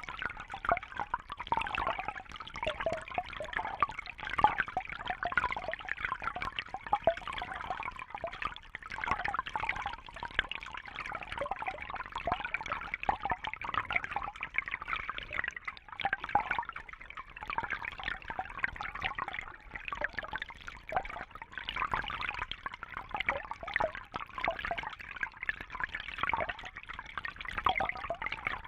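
Water trickling and splashing steadily, a continuous busy patter of small splashes and drips.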